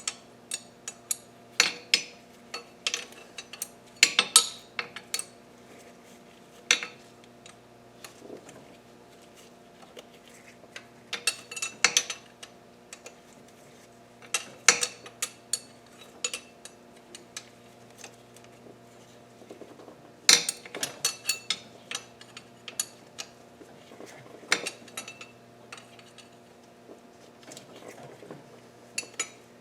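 Hand tools clinking and clicking against metal as intake manifold bolts are threaded into an aluminium cylinder head and snugged down, in irregular sharp clicks with quick clusters of rapid clicks, over a faint steady hum.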